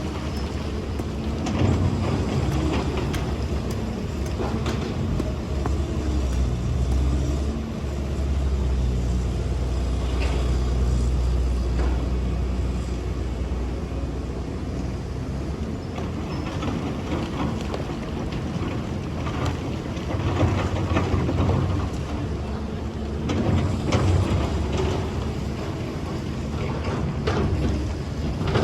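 Excavator's diesel engine running steadily, its hum rising and falling with the load, with scattered short knocks.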